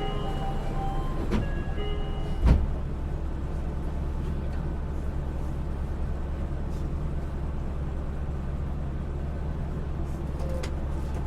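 Inside a Yui Rail monorail car: a short chime of several tones over the first two seconds, a sharp thud about two and a half seconds in, then the car's steady low hum.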